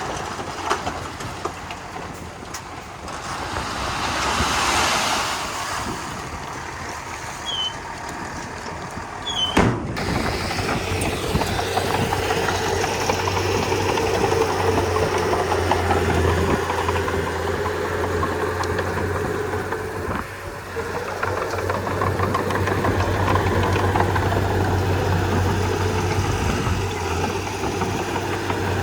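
Bulldozer diesel engine running. About ten seconds in there is a sharp clunk, after which the engine settles into a steady low drone.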